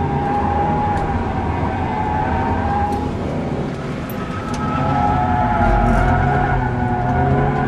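Hyundai Coupé engine heard from inside the cabin, pulling hard on track. The engine note sags around the middle, then climbs and gets louder from about halfway through.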